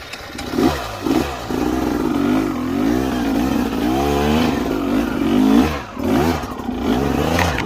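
Dirt bike engine revving up and down over and over in short bursts as the rider picks his way through rough, technical trail.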